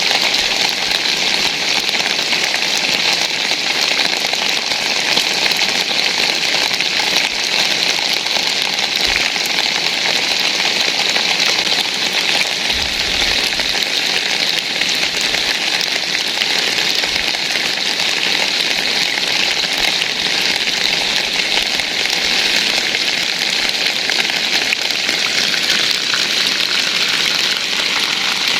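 Rain falling steadily: a dense, even hiss of drops that holds constant without let-up.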